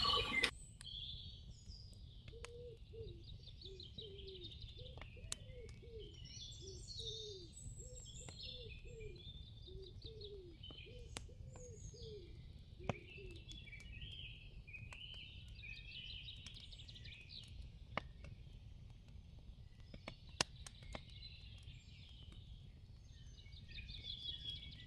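Faint chorus of songbirds chirping and twittering, with a lower, short falling call repeated about twice a second for the first half and a few sharp clicks scattered through.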